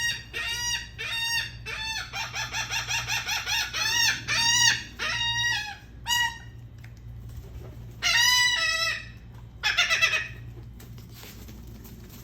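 Gulls calling: a quick run of short yelping notes, then several longer drawn-out calls that stop about ten seconds in.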